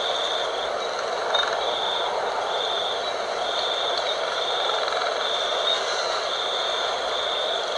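Night wind blowing in a steady rush. Above it runs a high, thin trill that pulses on and off roughly once a second.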